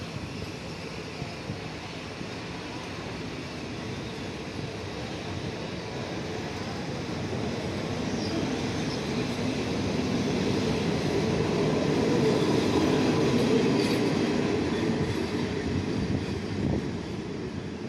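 Passenger train coaches rolling past a station platform: a steady rumble of wheels on the rails with a few clicks. It grows louder to a peak about two-thirds of the way through, then fades as the train moves away.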